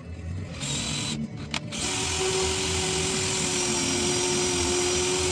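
Small electric power tool with a motor whine over a hiss. It runs briefly, cuts out twice, then runs at a steady speed from about two seconds in.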